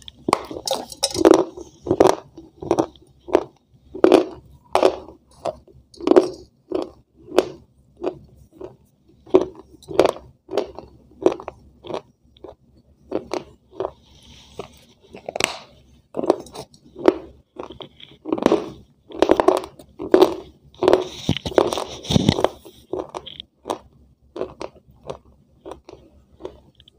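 A person biting and chewing a hard, crunchy white slab of food, close to the microphone: a steady run of crisp crunches, about two a second.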